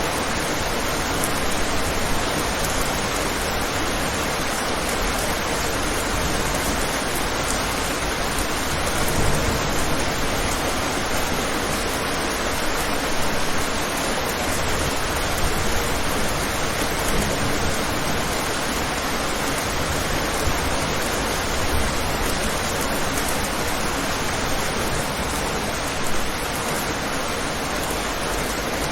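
Steady rain, an even wash of noise with small spatters now and then, as heard from a window.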